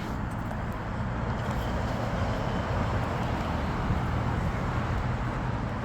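Steady low rumble of road traffic noise, growing slightly louder about a second in.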